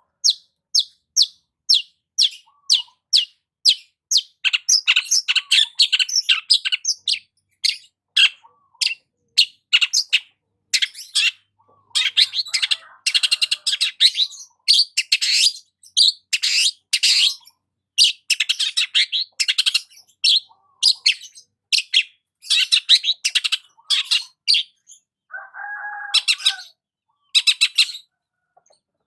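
Long-tailed shrike (cendet) singing: a run of short, sharp, high notes about two a second, then a fast, varied song of dense phrases. It ends with a harsher, lower call near the end.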